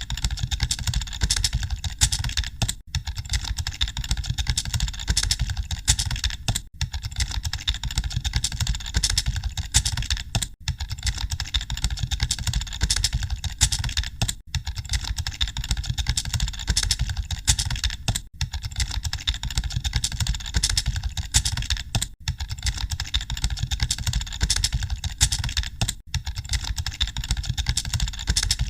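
Computer keyboard typing: dense, rapid key clicks over a steady low hum, with a brief dip in the clicking about every four seconds.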